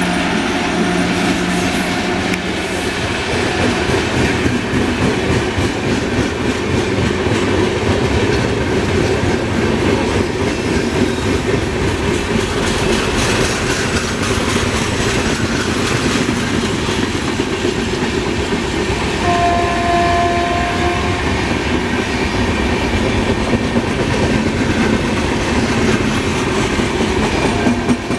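An accelerating express train of LHB coaches running past on the track, with wheels clattering steadily over the rail joints. A brief steady two-pitch tone sounds about two-thirds of the way through.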